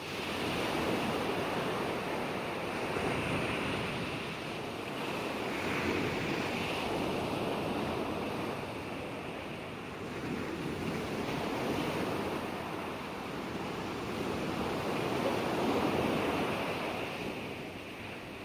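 Ocean waves washing ashore: a steady surf noise that swells and eases every few seconds as waves break.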